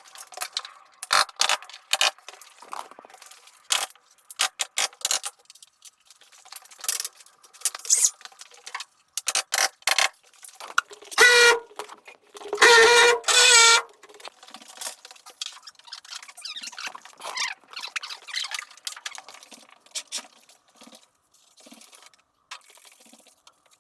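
Carpentry work: a string of knocks, taps and clatter of wood and tools, with two short pitched motor whines about eleven and thirteen seconds in.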